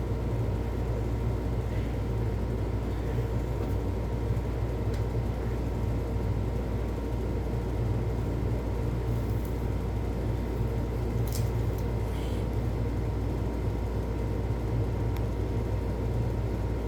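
Steady low rumble with a faint constant whine above it, even in level throughout, with a few faint ticks near the end.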